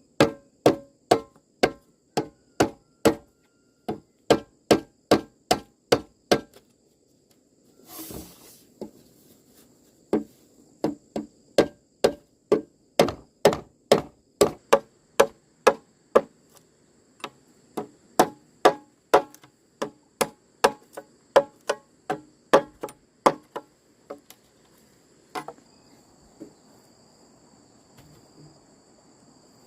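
Steady run of chopping blows from a hand tool, about two strikes a second, with short pauses between runs and a few last, spaced-out strikes near the end. A faint, steady high insect drone sits underneath.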